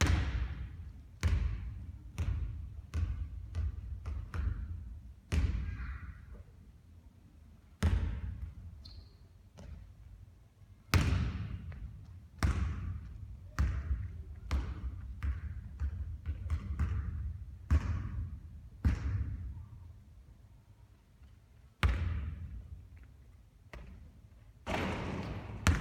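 Basketballs bouncing and landing on a court: a long, irregular run of thuds, a few louder sharp impacts among them, each fading with a ringing echo.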